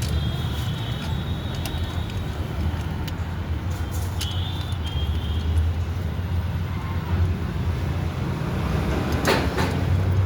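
Steady low rumble of a running motor vehicle engine, with a few faint clicks and short high squeaks over it.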